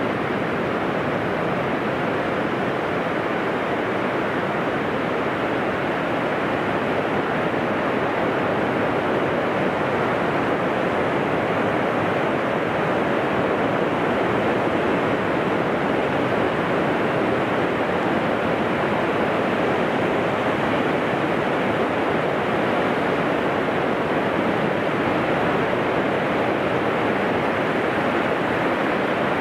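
Pacific Ocean surf breaking offshore and washing up a flat sandy beach: a steady, unbroken rush of waves.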